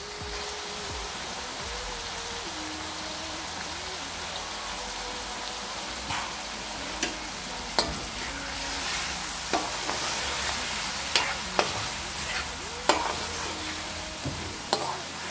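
Sliced onions and chopped tomatoes sizzling steadily as they fry in oil in a karahi. From about halfway on, a spatula stirring them gives a dozen or so sharp clicks and scrapes against the pan.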